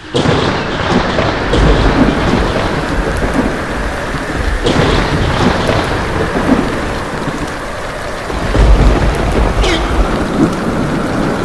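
Heavy rain falling steadily, with a deep roll of thunder about two seconds in and another about nine seconds in.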